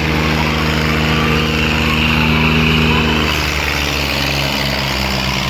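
Diesel tractor engine running steadily under load, its note shifting about three seconds in.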